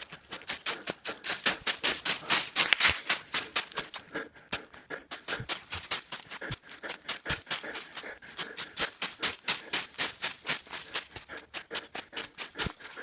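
Quick, even footsteps crunching on a dirt and gravel trail, about five or six steps a second, as of someone running.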